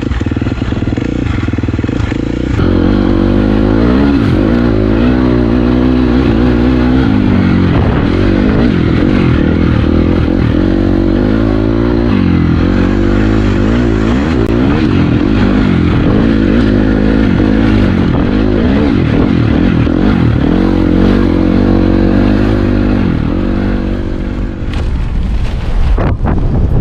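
Dirt bike engine running under riding load, its pitch repeatedly rising and falling as the throttle is worked, with some clatter and scraping from the bike.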